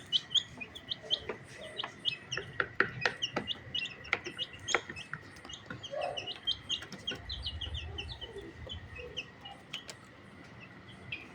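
Several chicks peeping in quick, short chirps, many overlapping, with sharp taps scattered among them.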